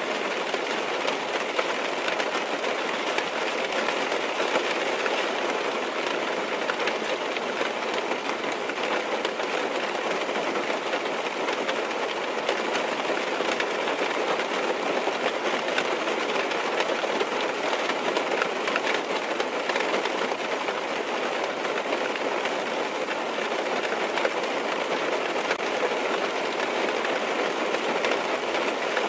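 Steady rain falling on a car's roof and windows, heard from inside the cabin as an even patter of many small drops.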